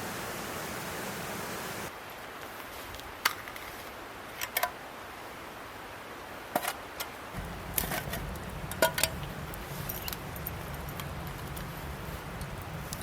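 Steady hiss that cuts off about two seconds in, followed by a dozen or so light, sharp metallic clinks and taps of camp gear being handled.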